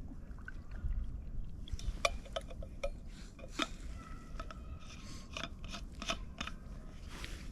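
A thermos flask and its lid-cup being handled for more tea: a run of light metallic clinks and taps, some ringing briefly.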